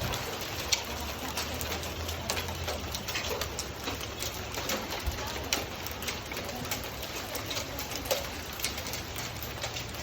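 Hailstones striking hard surfaces: many irregular sharp ticks and taps over a steady hiss of falling rain and hail.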